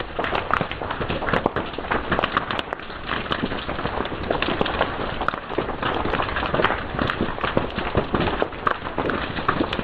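Fire crackling and popping steadily, with many sharp irregular snaps over a continuous hiss.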